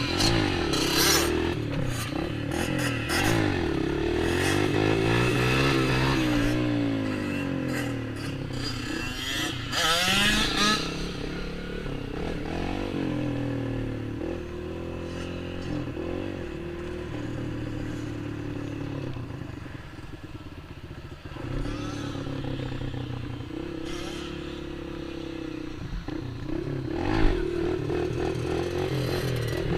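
Small off-road engines, of a dirt bike and a quad, running and revving, their pitch rising and falling again and again. They are loudest in the first ten seconds or so.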